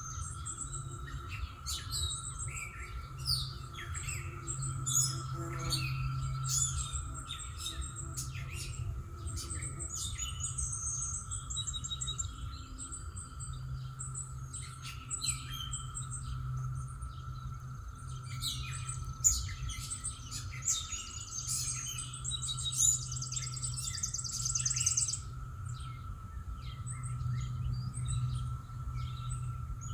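Several songbirds singing and chirping, short calls overlapping throughout, with a fast trill near the end. Beneath them run a steady high hum and a low rumble.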